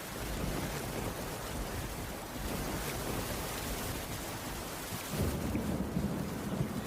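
Heavy rain falling steadily, with a low rumble rising about five seconds in.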